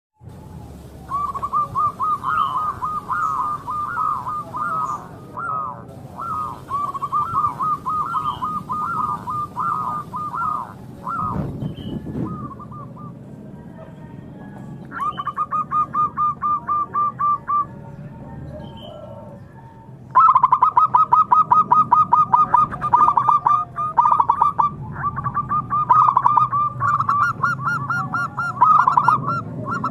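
Zebra dove cooing in long runs of rapid, rolling notes, several seconds at a time with short pauses between runs. Fainter, very high chirps from small birds come in during the last stretch.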